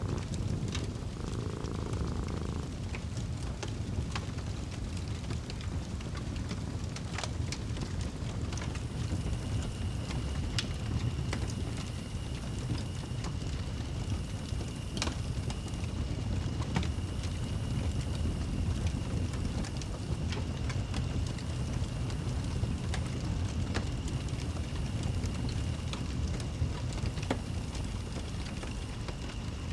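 Wood fire burning in a fireplace: a low steady rumble with scattered sharp crackles and pops. A cat's purring stops about two seconds in, and a faint steady high tone sets in about a third of the way through.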